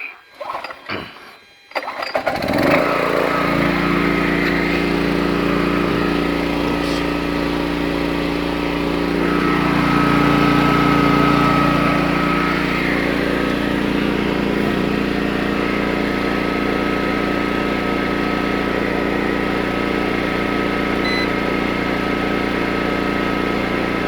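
Small Honda 1000-watt portable generator being started: a few short rattling strokes, then the engine catches about two seconds in and runs steadily, swelling a little around ten seconds in before settling.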